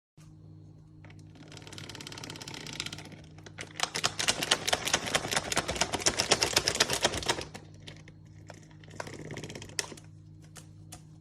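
Rapid clicking, about a dozen sharp clicks a second, loudest through the middle few seconds and softer before and after, over a steady low hum.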